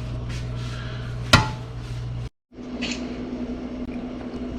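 A single sharp clank of cookware about a second in, with a short ringing tail, over a steady low appliance hum. The sound breaks off abruptly partway through and comes back over a different steady hum, with a fainter click.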